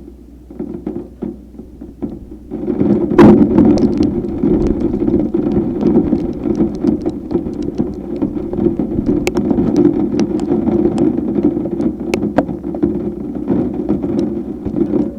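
Thunderstorm rain and wind noise that picks up suddenly about three seconds in and stays heavy, with scattered sharp taps over it.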